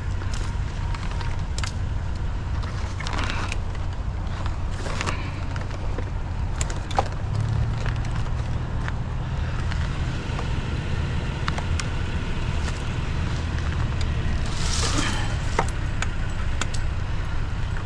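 Vehicle engine and road noise heard from inside the cab while driving, a steady low drone that gets louder about seven and a half seconds in, with scattered light rattles and clicks.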